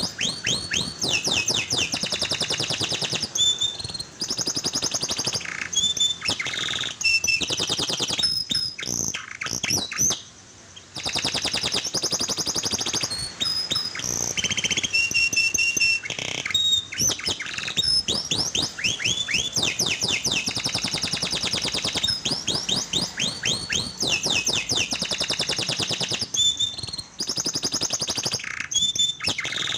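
Domestic canary singing a long, fast song of rapid trills and repeated rising whistles, with a brief pause about ten seconds in.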